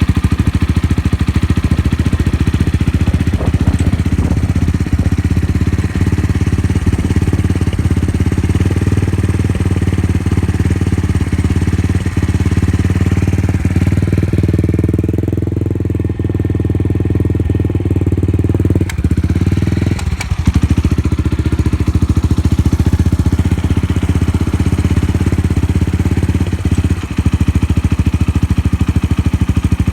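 Suzuki Grasstracker's air-cooled single-cylinder engine running steadily at idle through an aftermarket Supertrapp 4-inch megaphone full exhaust, with no abnormal noises.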